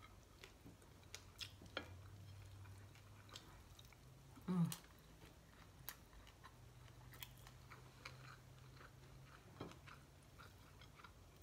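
Quiet, close-up eating sounds: chewing of rice and fried fish, with small wet clicks from fingers working the food on a plate, and one louder short mouth or plate sound about four and a half seconds in.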